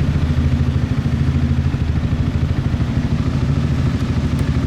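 Motorcycle engine running steadily while riding, a low drone with a fast, even pulse.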